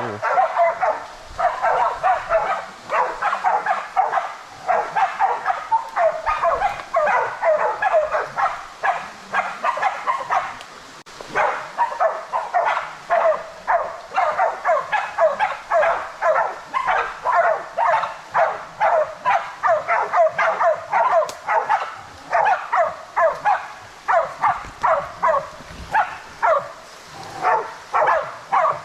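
Hunting dogs barking rapidly and without a break, bailing a feral boar. The barking holds the boar at bay. It comes at about three or four barks a second and eases briefly about halfway through.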